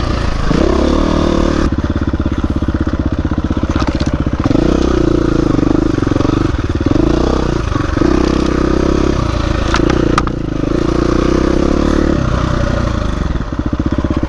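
Dirt bike engine running under load, its pitch rising and falling repeatedly as the throttle opens and closes, with a few short knocks and clatters from the bike over the trail.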